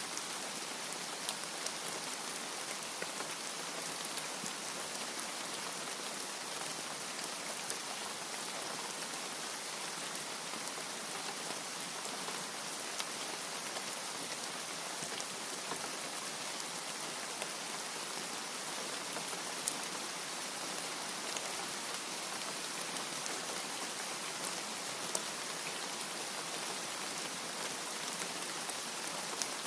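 Steady heavy rain, an even hiss with scattered individual drop ticks.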